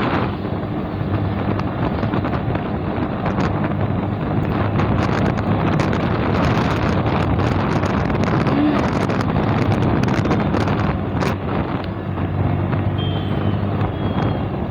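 Motorcycle engine running steadily on the move, with heavy wind buffeting on the microphone.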